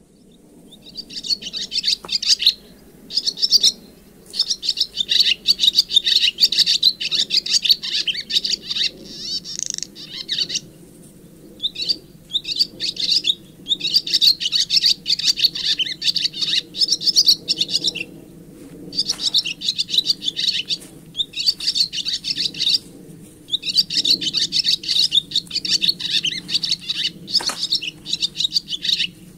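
A songbird singing: long phrases of rapid, high chirps, each lasting a few seconds, separated by short pauses.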